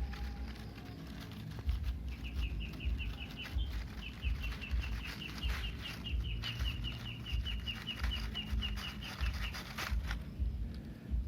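A bird chirping in a fast run of short high notes, about six a second, over scattered clicks and a low rumble.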